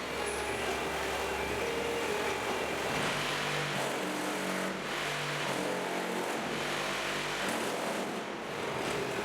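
Concrete block-making machine running: a steady mechanical drone over a low hum. Its pitched tones step and shift for a few seconds in the middle.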